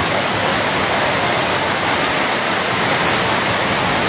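Heavy rain pouring down: a loud, steady hiss with no break.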